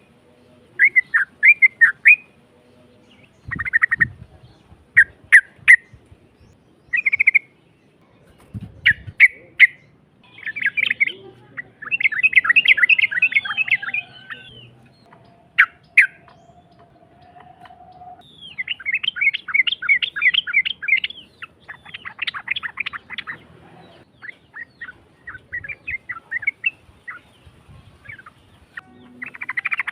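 Yellow-vented bulbul (trucuk) singing in a harsh voice: short phrases of rapid chirping notes repeated every second or two, with a few longer rapid runs partway through.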